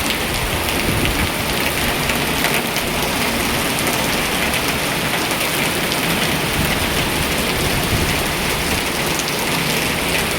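Heavy rain pouring down steadily, a dense even hiss with a fine patter of drops.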